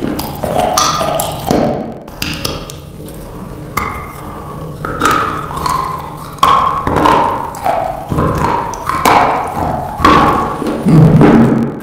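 Close-miked chewing of slate in the mouth, with sharp crunches breaking out at irregular intervals about every second or so.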